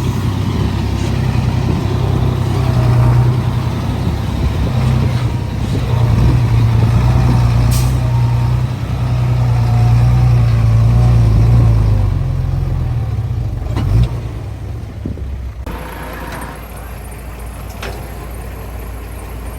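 Heavy diesel earthmoving machinery running hard, the engine note rising and falling with the load. About fourteen seconds in there is a sharp knock, after which the engine settles to a quieter, steadier run.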